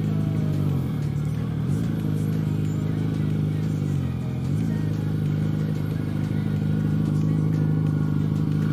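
Motorcycle engine running steadily at low revs, its pitch sagging briefly and picking back up twice, about a second in and about four seconds in.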